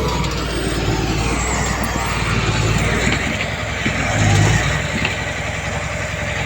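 Diesel engine of heavy earthmoving machinery running steadily under load, swelling briefly about four seconds in.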